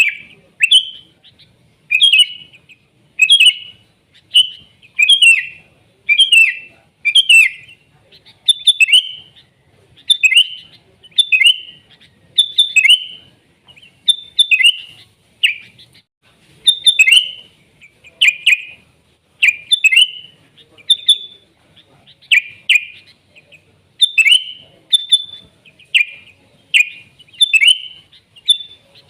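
Sooty-headed bulbul (kutilang) singing vigorously: a steady run of short, loud, warbling phrases, about one a second.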